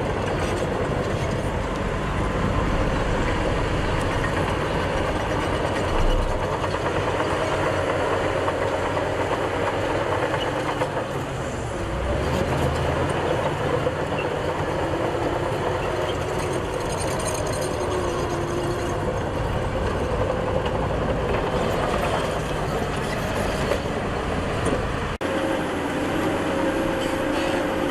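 Heavy diesel earthmoving machinery running steadily under load, with a faint whining tone over the engine. The sound changes abruptly about 25 seconds in, where the low rumble drops away.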